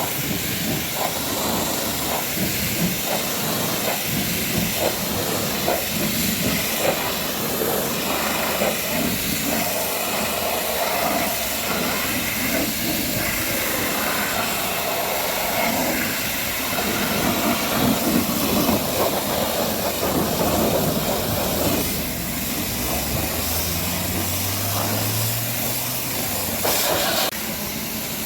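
Pressure washer spraying water onto a truck: a steady, loud hiss of water spray with irregular splashing texture. It drops in level suddenly near the end.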